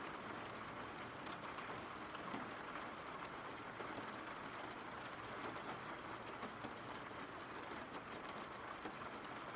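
Faint, steady rain: an even hiss of falling rain from a background rain-sounds track.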